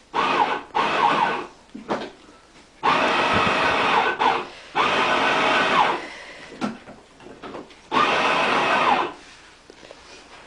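Electric motor of a battery-powered ride-on toy train running in five short spurts as the foot pedal is pressed and released. Each spurt has a whine that rises and falls.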